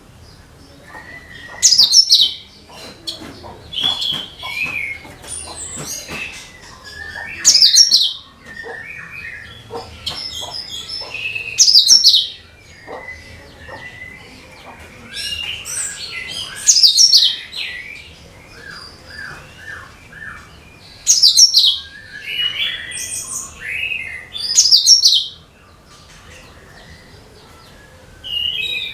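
Cucak kinoi singing: loud, sharp, high chirp phrases about every four to five seconds, with softer, varied chirps and twitters in between.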